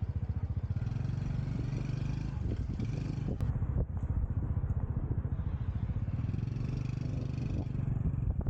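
Motorcycle engine running steadily, a low sound with a fast, even pulsing beat.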